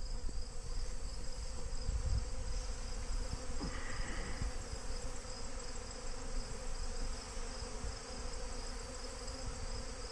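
Massed honey bees buzzing in a steady drone around a beehive: a crowd of robber bees swarming and fighting to get into a weakened colony. Above it runs a steady, high-pitched insect trill.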